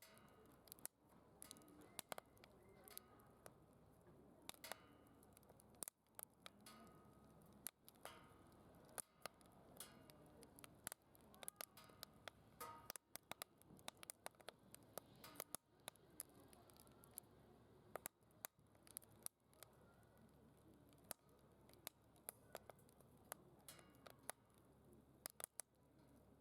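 Quiet wood fire burning in a DOD Mecha Moe Fire secondary-combustion fire pit, crackling with frequent irregular sharp pops and ticks.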